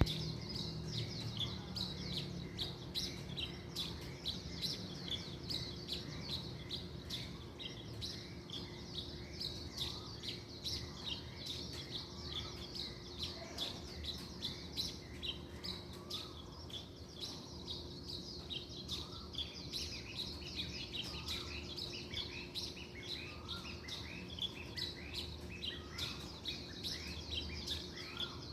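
Small birds chirping and twittering in a dense, continuous chorus of quick high notes and short trills, with a faint steady low hum underneath.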